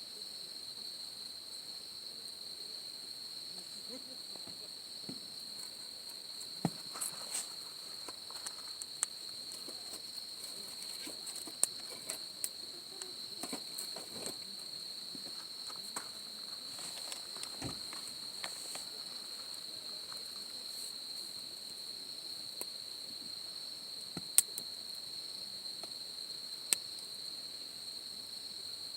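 Insects chirring in a steady, unbroken high-pitched drone, with scattered sharp clicks and pops over it, the loudest about two-thirds of the way through and near the end.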